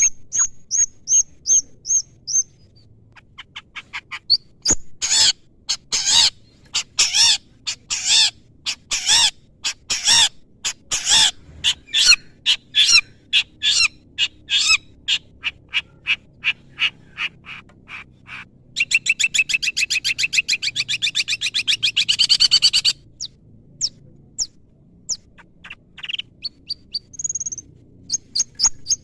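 Long-tailed shrike (cendet) singing a loud, varied song of sharp repeated notes and mimicked phrases. It opens with a run of quick high chirps and later breaks into a fast rattling trill for about four seconds.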